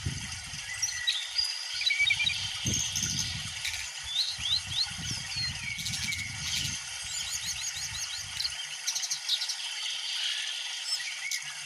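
Songbirds singing: a varied run of whistled chirps and gliding notes, with a quick series of repeated notes about two-thirds of the way through. A low rumbling noise underneath stops shortly after that.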